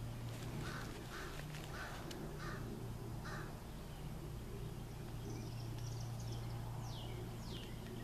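A bird gives five short calls, about one and a half a second, in the first half. Later come fainter high chirps and two quick downward-sliding whistles from birds, all over a steady low hum.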